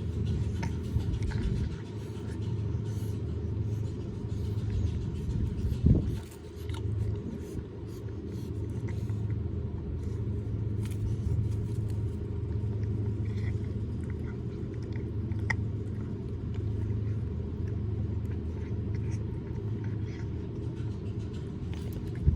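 A steady low rumble, with faint scattered clicks of a cat chewing and gnawing on a pork rib, and a single louder thump about six seconds in.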